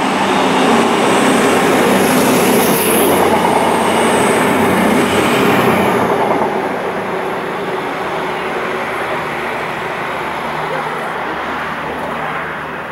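Diesel multiple unit passing close at speed: engines and wheels on rail, loud for the first six seconds or so, then quieter and steady.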